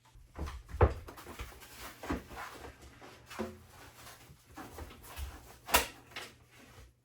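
Irregular knocks and bumps with rustling and scraping between them, the loudest about a second in and another near six seconds: handling of materials during kitchen floor work.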